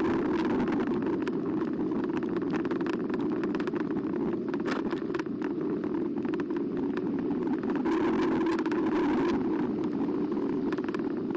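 A Carbo X eBike riding along, heard from a camera mounted on the bike: steady rushing wind and tyre noise with scattered rattling clicks from the frame over bumps. A faint motor whine is stronger at the start and again about eight seconds in.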